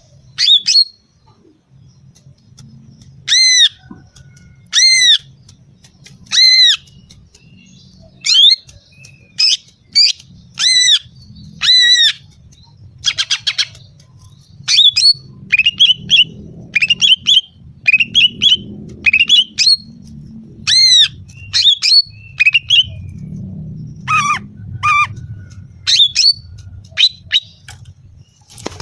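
Female green leafbird (cucak ijo) calling: short, harsh, arched calls repeated about every second, mixed with runs of quicker chattering notes. This is the female call that draws and excites males.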